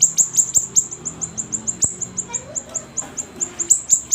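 Siri-siri songbird singing in a rapid series of sharp, high chips, each note sweeping down in pitch, about five or six a second.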